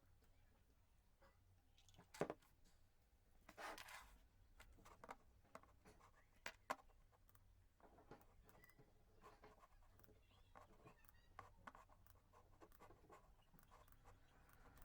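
Faint handling sounds in a quiet room: scattered light clicks and taps, a sharper tick about two seconds in, a brief scratchy rustle around four seconds, and two quick ticks a little past six seconds.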